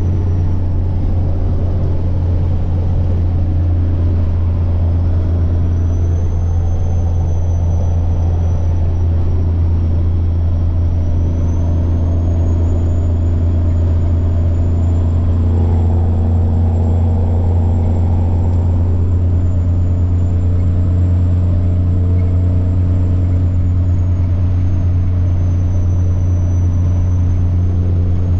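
Semi truck's diesel engine running steadily while driving, a deep constant hum, with a thin high turbocharger whine that drifts slowly up and down in pitch.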